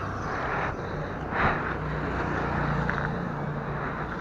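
Steady outdoor street noise, with a motor vehicle's low engine hum in the middle seconds.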